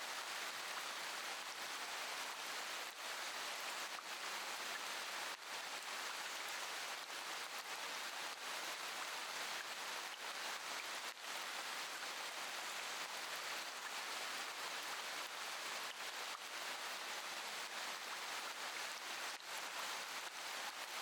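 Steady rain falling, an even hiss with a few single drops standing out now and then.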